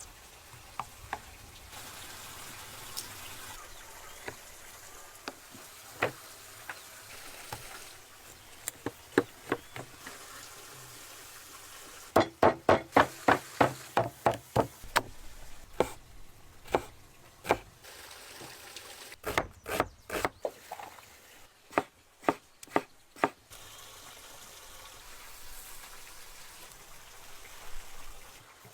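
Kitchen knife chopping on a cutting board: scattered knocks at first, then a quick run of about four strikes a second, and another run a few seconds later.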